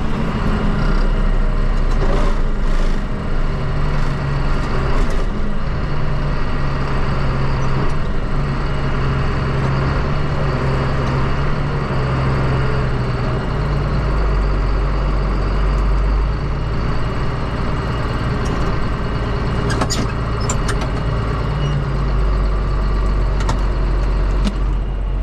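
Tractor engine running steadily while driving along the road, its low drone shifting a little in pitch, with a few clicks and rattles.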